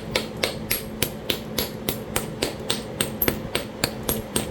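Stone-on-stone work along the edge of a Talahata quartzite biface: a steady run of sharp, light clicks, about three and a half a second.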